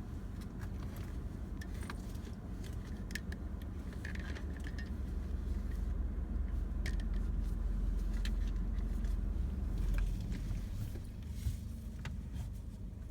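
A vehicle engine idling as a steady low rumble that grows a little louder about halfway through, with scattered small clicks and light rattles over it.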